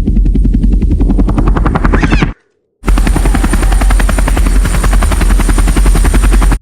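Loud, steady machine noise with a fast, even chopping beat, like an aircraft's rotor or propeller. It cuts out for about half a second about two and a half seconds in, then resumes and stops abruptly at the end.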